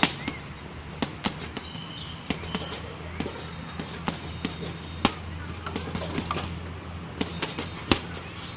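Blows striking a heavy punching bag: sharp, irregular thuds, sometimes two close together, over a steady low hum.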